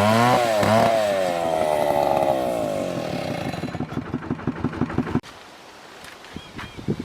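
Two-stroke chainsaw running at high speed, its pitch wavering as if under load, then winding down from about two seconds in to a slow run with separate firing beats. It cuts off about five seconds in.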